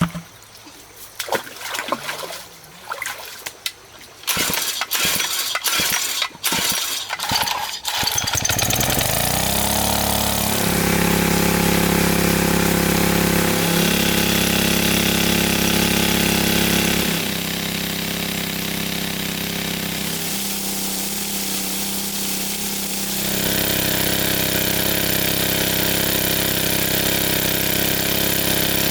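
A series of irregular knocks and clicks, then a small engine starts about eight seconds in, its pitch rising as it comes up to speed. It then runs steadily, dropping in level partway through and picking up again near the end.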